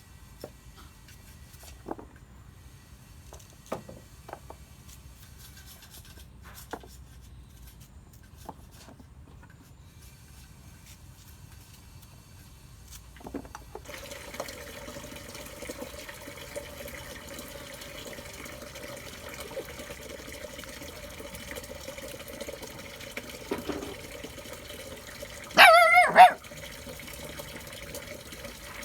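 A dog barks twice in quick succession near the end, the loudest sound here. From about halfway, a steady sound of running water goes on underneath, after a first half with only faint scattered clicks.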